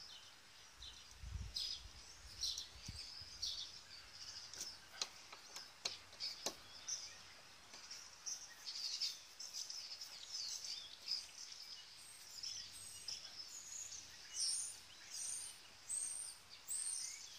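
Birds chirping in short, repeated high calls, busier near the end. A few faint clicks come from a hand screwdriver driving screws into the plastic socket housing.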